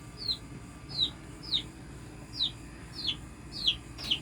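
Baby chicks peeping in a brooder: a steady series of short, high, falling peeps, close to two a second.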